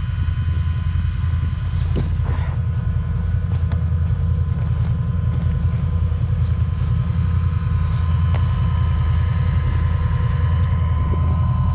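A vehicle engine running steadily at one even speed close to the microphone, with no revving.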